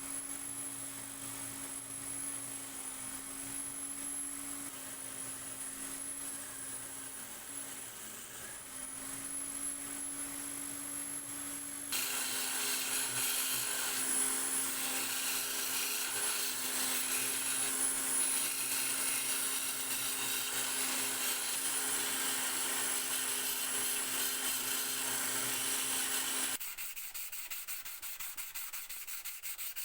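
A small electric power tool running with a steady hum and high whine as it works against a surface, its pitch dipping briefly under load about eight seconds in. After an abrupt change about twelve seconds in it runs louder with more grinding noise. Near the end it stops and a quieter, rapid rubbing follows.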